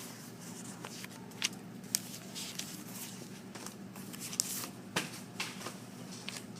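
Paper handling: irregular rustling and crinkling of sheets with a few sharp clicks, over a steady low room hum.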